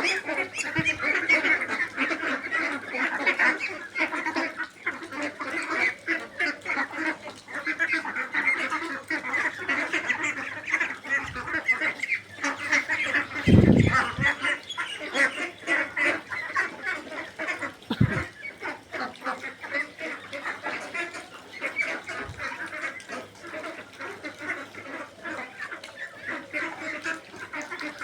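A flock of domestic ducks calling continuously, many quacks overlapping into a dense din. A few dull low thumps break through, the loudest about halfway.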